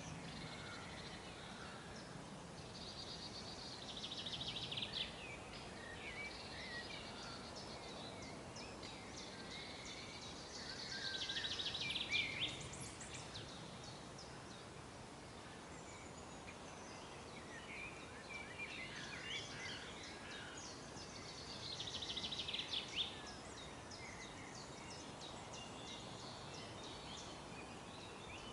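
Songbirds singing outdoors: one bird gives three song phrases of rapid repeated notes, spaced several seconds apart, while other birds chirp intermittently over a faint steady background hiss.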